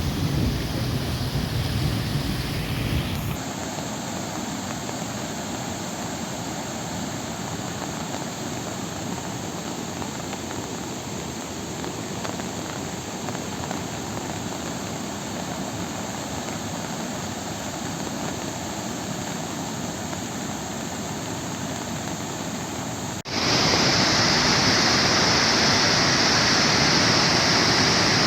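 Rushing floodwater: a steady roar of flowing water. The sound changes abruptly about three seconds in, and again near the end, when it becomes louder and hissier.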